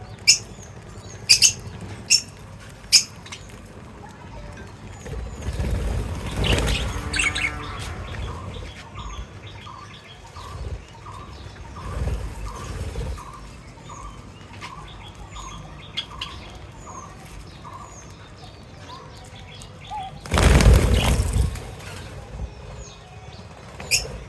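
Small cage birds chirping, with several sharp high chirps near the start and a run of short, evenly spaced calls, about two a second, in the middle. Two loud flurries of wing flapping, one about a quarter of the way in and one near the end.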